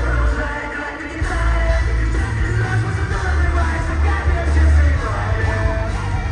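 Live rock band playing loudly through a concert PA, with a heavy, pulsing bass and drum low end and singing voices over it.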